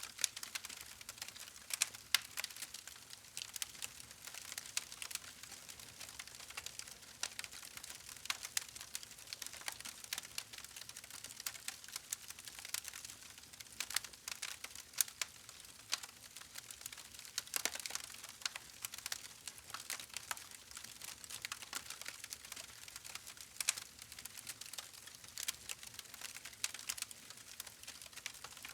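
Wood fire crackling, with a steady run of sharp, irregular pops and snaps over a soft hiss.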